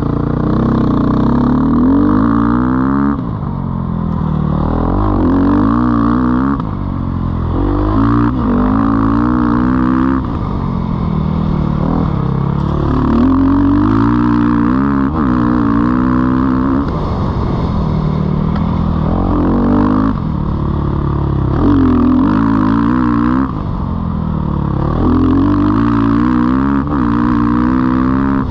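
2019 Sherco 450 SEF dirt bike's single-cylinder four-stroke engine being ridden hard, its pitch climbing under throttle and dropping back again every few seconds as the rider accelerates and backs off.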